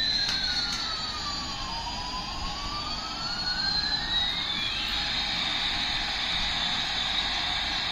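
Electronic toy sound effect: a steady hiss with two sliding tones, one gliding up while the other glides down, meeting again after about five seconds, with the sweep starting over near the end. It sounds like a synthetic jet or siren effect from a toy's sound chip.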